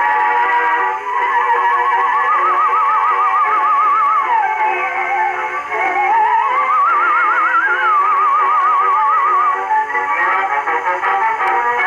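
An acoustic record playing through the horn of a Victor Type V gramophone. A lead melody line with wide vibrato rises and falls over a dense accompaniment, and the sound is thin, with little treble.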